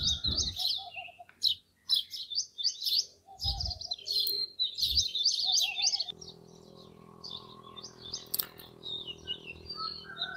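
A chorus of small birds chirping densely and rapidly, with a few low thumps. About six seconds in the chirping thins out and becomes quieter, and a steady low mechanical hum comes in underneath.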